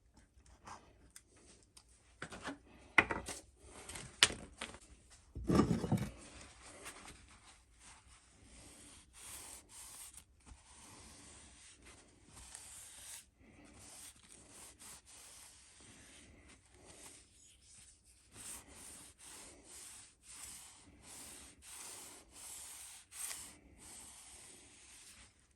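Repeated back-and-forth rubbing strokes by hand on the old cobbler hammer, about two a second. A few sharp knocks and a louder scrape come in the first six seconds.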